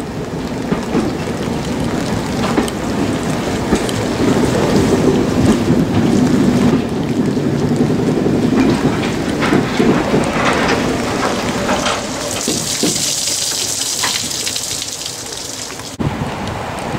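Steady rain, with wind buffeting the microphone and the low rumble of railway coaches rolling slowly out along the platform; the rumble is strongest in the middle and gives way to a hissier rain sound near the end.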